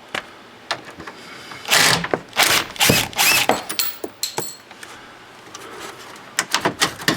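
Cordless drill-driver with a Torx bit running in several short bursts, a faint rising whine in some, as screws are backed out, followed by clicks and small metal rattles.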